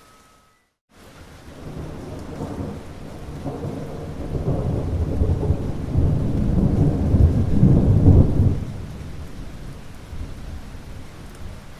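Rolling thunder that builds for several seconds, is loudest a little past the middle and then dies away, over a steady hiss of rain. It opens with a brief moment of total silence.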